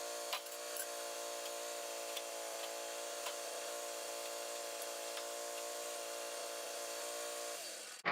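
A motor-driven machine running with a steady hum, then switched off near the end, its pitch falling as it spins down.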